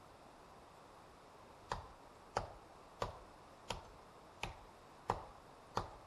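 Seven sharp knocks, evenly spaced about two-thirds of a second apart, over a steady low hiss.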